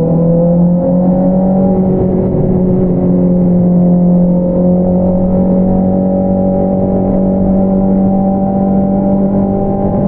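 2022 Honda CBR650R inline-four engine through an Akrapovič single-outlet exhaust, running under way at steady revs. Its pitch climbs a little in the first second or two, then holds level.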